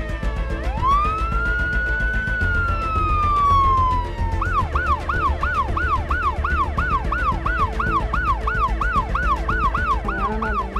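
Ambulance siren on an approaching ambulance: one long wail that rises about half a second in and slowly falls, switching about four seconds in to a fast yelp of about four cycles a second. A low rumble runs underneath.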